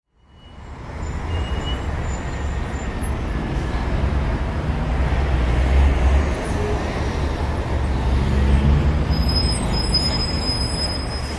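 Low, steady rumble of car engines and road traffic, fading in from silence over the first second.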